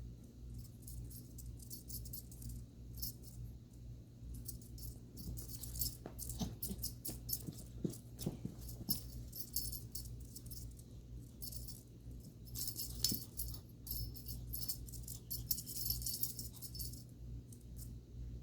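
A small bell-type cat toy jingling and rattling in irregular bursts as it is batted about, busiest in the middle and again later on, over a steady low hum.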